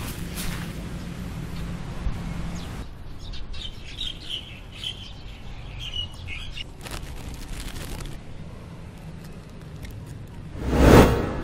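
Small birds chirping in a run of short high calls for a few seconds in the middle, over steady outdoor background noise. A loud rushing swell of noise comes near the end.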